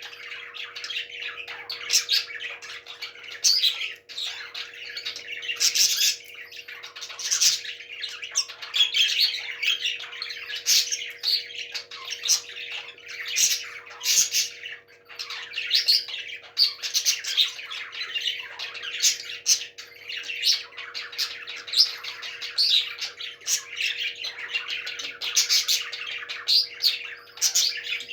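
Parrots squawking and chattering continuously, with frequent loud, sharp squawks over a steady hum.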